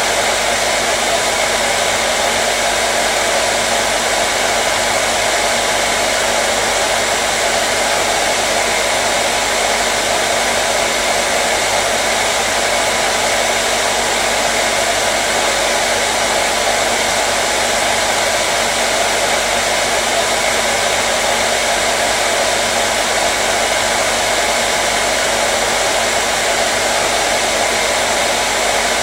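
Hair dryer blowing continuously, a steady even rush of air and motor hum that does not change.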